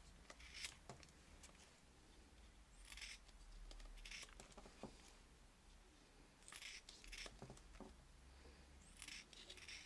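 Rubber inner tube being cut into thin strips: a handful of short, faint cutting sounds spaced a second or more apart.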